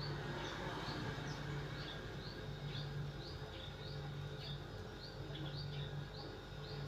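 Small birds chirping in short, high, downward-sliding notes, about three a second, over a low hum that swells and drops away roughly once a second.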